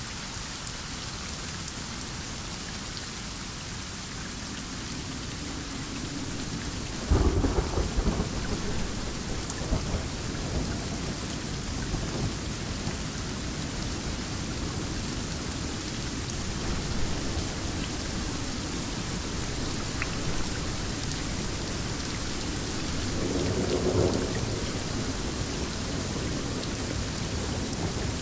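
Steady heavy rain with thunder: a sharp, loud thunderclap about seven seconds in that rolls on for a few seconds, then a second rumble swelling near the end.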